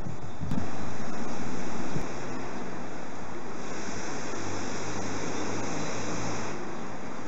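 Electric trains approaching on the tracks: a steady, even rushing of wheels on rail with a low rumble. A louder stretch starts about half a second in and stops abruptly about two seconds in.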